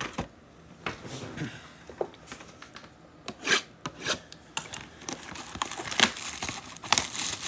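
A trading-card mega box and its packs being opened by hand: cardboard and wrappers rubbing, rustling and tearing, with a few short, sharper rips.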